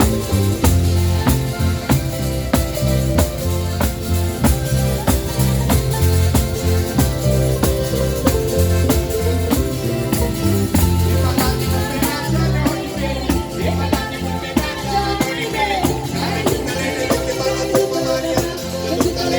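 A band playing through a sound system at a sound check: a steady drum beat and bass line, with a singing voice joining about twelve seconds in.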